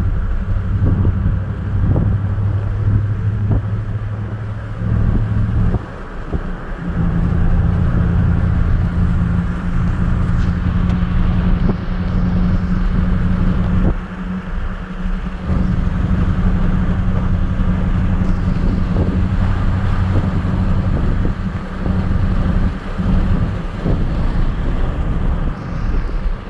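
Motor vehicle driving on a road, heard from inside the cabin: a steady low engine hum that eases off twice, with scattered knocks and rattles from the road surface.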